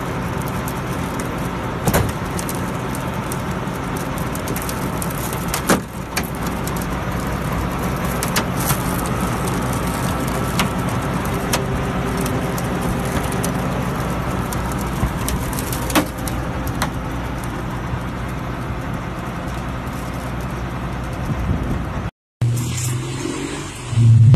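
Vehicle engine running steadily, with a few sharp knocks or clicks, then cut off abruptly near the end and followed by a louder low engine drone.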